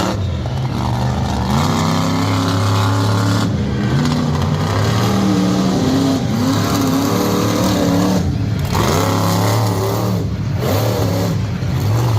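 Loud, high-powered truck engine revving hard several times, its pitch climbing and dropping, with brief lifts off the throttle.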